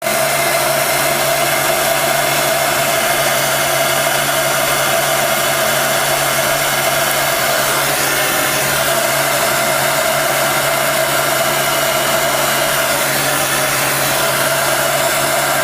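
Hot-air blower running steadily, an even blowing whir with a low hum underneath, used to warm repair material so it can be worked.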